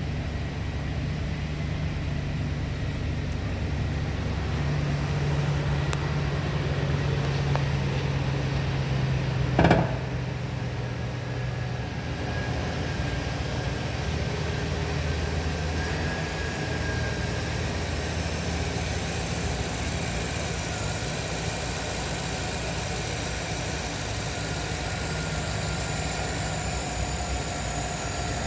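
2008 Chevy Silverado 1500's 5.3-litre V8 engine idling steadily, with one sharp clack about ten seconds in, the loudest sound; a high hiss comes in after about twelve seconds.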